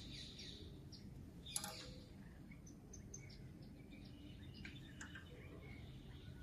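Birds chirping and twittering in quick, high, overlapping calls and short trills, with one sharp click about a second and a half in.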